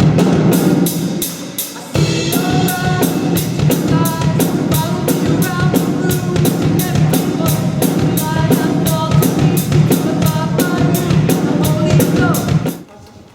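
A band plays a pop-rock song with a drum kit keeping a steady, even beat over melodic instruments. It breaks off about two seconds in, starts again at once, and stops suddenly near the end.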